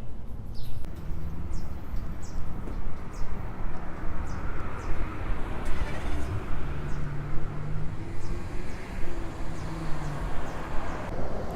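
Outdoor street noise with a vehicle passing, swelling to its loudest about halfway through, over a steady low rumble.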